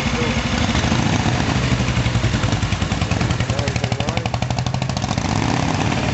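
Motorcycle engine running steadily, with a rapid, even beat of firing pulses that is clearest in the middle.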